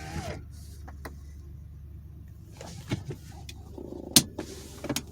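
Lexus LX470 cabin: the engine runs with a steady low hum under a series of sharp clicks and knocks from the interior controls and fittings, the loudest a little after four seconds in.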